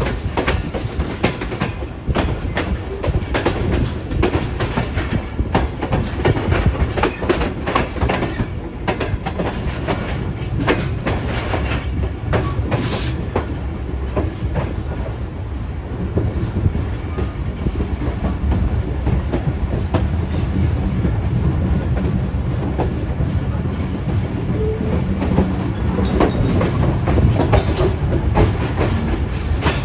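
Passenger train running along the track: a continuous low rumble with rapid, irregular clicks and clatter of the wheels over the rails.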